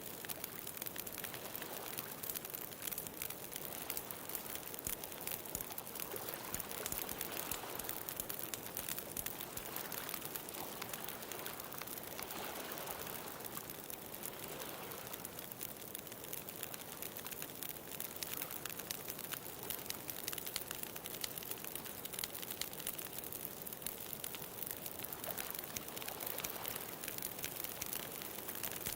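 Bonfire crackling with many small pops, over ocean waves washing ashore that swell and fade several times.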